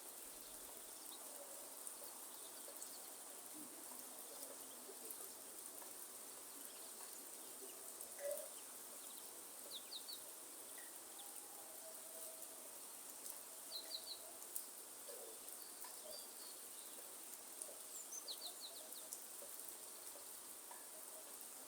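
Faint forest ambience: a steady hiss with a constant high insect drone, and brief bird chirps a few times, in quick clusters.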